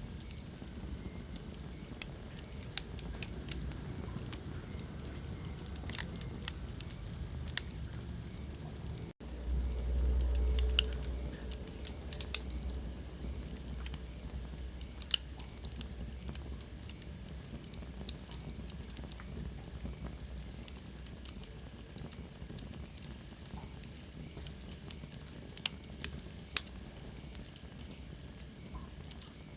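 Wood fire crackling in a fireplace: scattered sharp pops over a low, steady rumble of flames. The sound cuts out briefly about nine seconds in and comes back with a louder rumble for a couple of seconds. A faint high whistle falls in pitch near the end.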